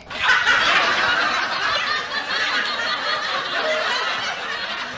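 A group laughing and chuckling together, starting suddenly and cutting off abruptly like an edited-in laugh sound effect.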